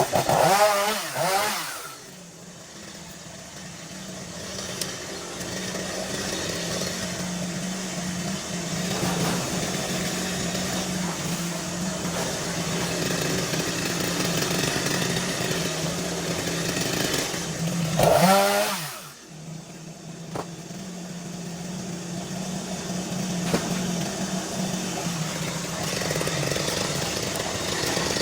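Chainsaw engine running steadily. It is revved up and let fall back twice, at the start and again about eighteen seconds in, dropping quieter each time before building up again.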